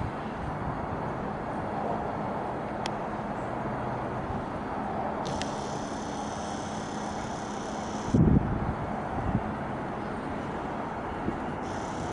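Strong wind buffeting the microphone over a steady low rumble, with a hard gust hitting about eight seconds in. A thin high whine sounds for about three seconds in the middle.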